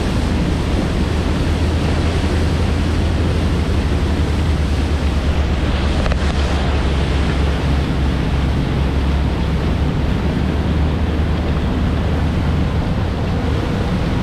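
Wind buffeting the microphone and water rushing past a moving boat, over a steady low engine drone.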